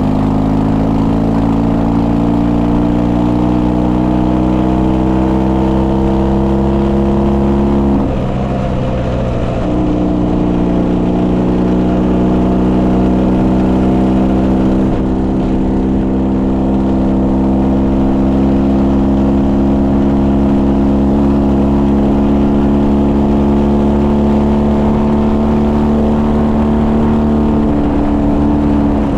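Ural motorcycle's flat-twin engine pulling under load, its pitch rising slowly. About eight seconds in the pitch drops away briefly for a gear change, then the engine climbs steadily again.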